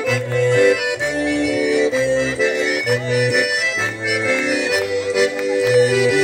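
Accordion playing an instrumental passage of gaúcho folk music, with chords and a bass line, in the break between sung verses.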